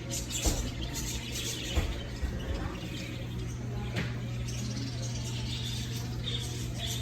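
Small caged birds chirping intermittently over a steady low hum, with background music.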